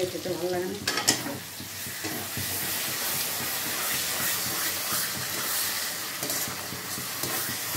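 Masala paste sizzling in a steel kadai while a metal spatula stirs and scrapes through it, with a sharp clack about a second in.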